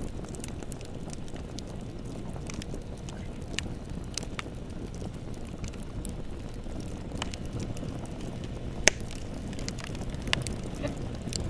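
Bonfire burning with a steady low rumble and scattered wood crackles, with one sharp pop just before nine seconds in and a smaller one about a second and a half later.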